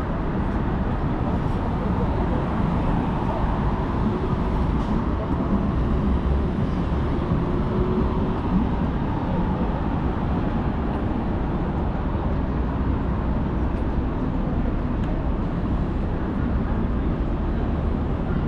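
Steady downtown street ambience, mostly the hum of road traffic.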